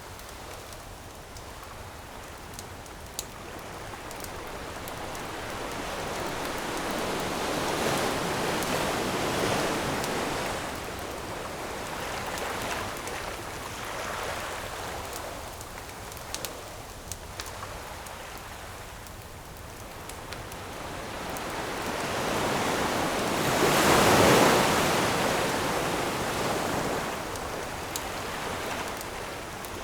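Ocean waves washing onto the shore in slow swells, one building about eight to ten seconds in and a louder one breaking about twenty-four seconds in, with scattered pops and crackles from a wood campfire.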